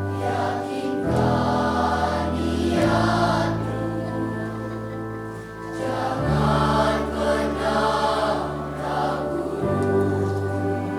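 School children's choir singing in phrases over sustained low notes from an accompanying string orchestra and piano.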